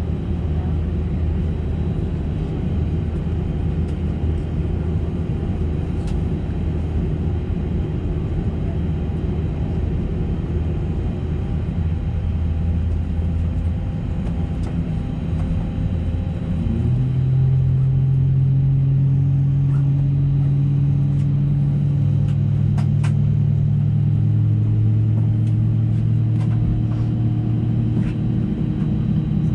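Steady low hum inside the cabin of an Airbus A320neo on the ground. About halfway through, a louder set of steady tones comes in and steps up in pitch twice, as one of its CFM LEAP-1A engines spools up during start.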